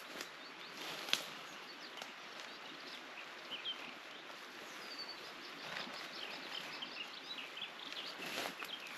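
Faint birdsong in woodland: short high chirps and trills, busiest in the second half, over a steady outdoor hiss. A few sharp clicks stand out, the loudest about a second in.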